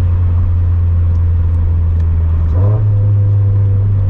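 Turbocharged 2013 Scion FR-S flat-four engine and catless aftermarket exhaust droning steadily while driving. About two and a half seconds in, the pitch briefly rises, then settles a little higher.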